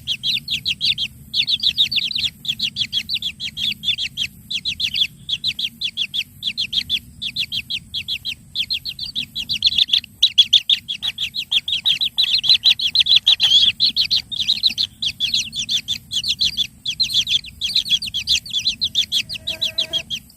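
Kingfisher chick's begging calls: high, rapid chirps repeated several times a second in long runs with brief breaks.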